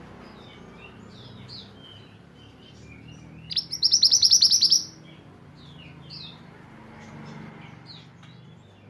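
Caged-songbird training recording: many short, high twittering chirps and whistled glides. About three and a half seconds in comes one loud, rapid trill of quick repeated notes lasting just over a second. This is the 'tembakan' (shooting) phrase that pleci (white-eye) keepers play to their birds.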